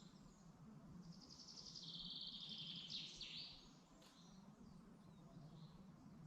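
Faint songbird song in woodland: a rapid trill that steps down in pitch partway through and ends in a few quick down-slurred notes, with a few short distant calls around it. A steady low hum lies underneath.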